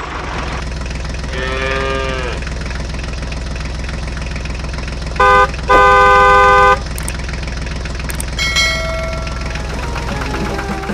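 A motor runs steadily with a low drone throughout. A cow moos once about a second and a half in. A vehicle horn then honks twice around the middle, a short honk followed by a longer one, and these honks are the loudest sounds.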